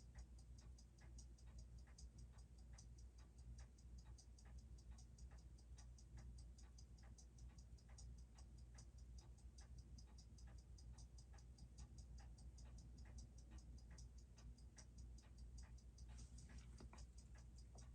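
Faint, rapid, even ticking of a Seiko 6R15 automatic watch movement, whose balance beats six times a second, picked up by a timing machine while the watch lies dial-down for a positional rate and amplitude check.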